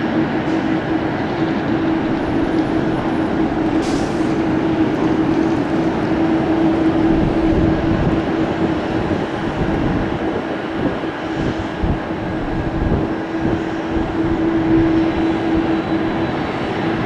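Jet airliner engines running with a steady roar and a steady droning hum, some low rumble changes in the middle.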